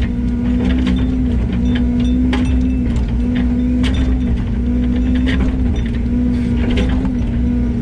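Yanmar ViO80 excavator's diesel engine running steadily with a constant hum, with irregular clicks and clanks from the machine's bucket and linkage as it works fill dirt around a culvert pipe.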